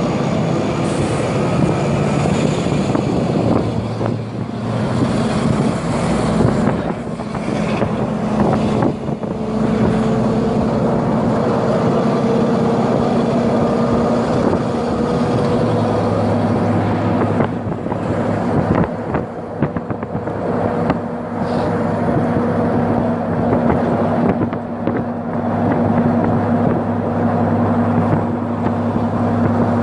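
Agrale MT 17.0 LE bus's four-cylinder diesel engine running under way. Its note rises slowly as the bus gathers speed, shifts about halfway through, then settles into a steadier lower drone.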